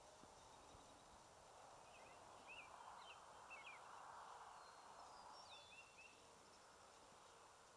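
Near silence: faint outdoor ambience, with a few faint, short bird chirps in the middle.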